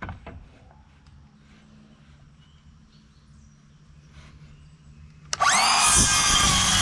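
A knock or two, then about five seconds in a power tool's motor starts suddenly and runs loud and high, its pitch rising briefly as it spins up and then holding steady.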